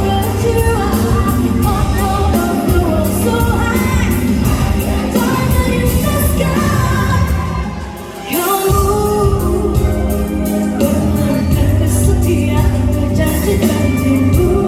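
Pop song performed live: a woman singing over full band accompaniment. The music drops away briefly about halfway through, then comes back in.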